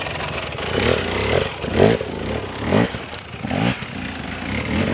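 Dirt bike engine revved in short repeated bursts, about once a second, each rising and falling in pitch.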